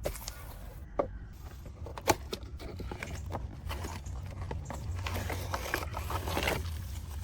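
Small irregular clicks and knocks from handling and cleaning a die-cast model truck, with a sharp knock about two seconds in and a denser scrubbing rustle later on, over a steady low hum.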